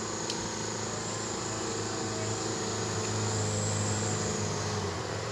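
Truck engine running steadily, a low even hum that firms up slightly partway through.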